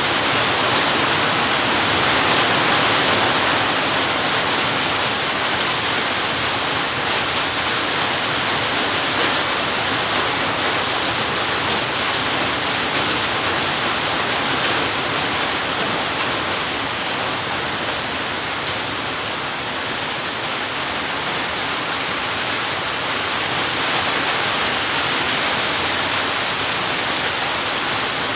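Heavy rain falling steadily, an even hiss without breaks or thunderclaps.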